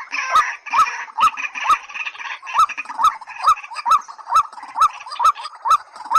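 Repeated calls of white-breasted waterhen and watercock. Short upward-hooked notes come about twice a second, at an even pace, each with a sharp click.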